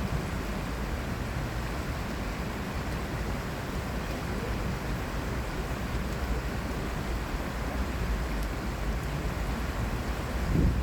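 Steady outdoor ambience of a city stream: the constant rush of flowing water blended with a low rumble of city traffic, with a short low gust of wind on the microphone right at the end.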